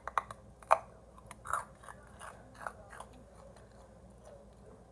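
A person biting into a crispy, crunchy snack and chewing it: a string of sharp crunches, the loudest a little under a second in, tapering off after about three seconds.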